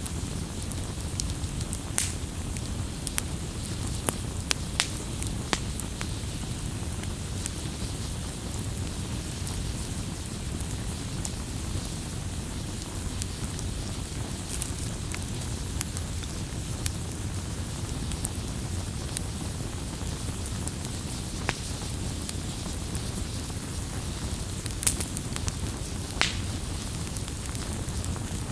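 Wood campfire burning: a steady low rumble of flames with scattered crackles and sharp pops of burning wood, the loudest pop about 25 seconds in.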